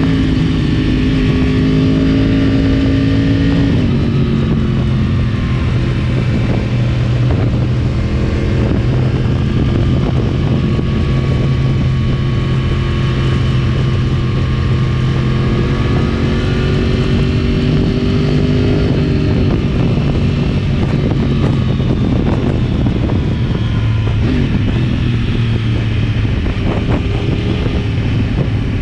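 2010 Yamaha R1's crossplane inline-four, through a decatted Akrapovic exhaust, running under way at a fairly steady engine speed, the pitch dipping about four seconds in, shifting again around twenty seconds and rising near the end.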